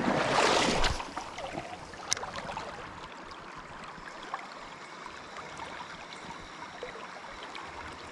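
Steady rush of flowing river water, with a louder burst of noise in the first second and a single sharp click about two seconds in.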